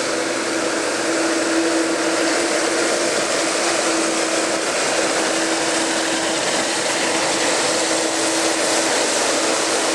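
Jet aircraft engine noise: a steady rushing sound with a constant mid-pitched tone running through it.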